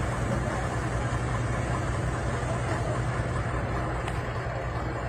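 Truck diesel engine running steadily at low revs, a constant low hum.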